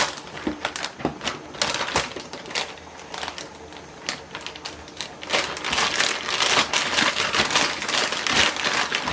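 A run of scattered sharp clicks and taps, then from about five seconds in a dense crinkling of plastic freezer bags being handled and pressed.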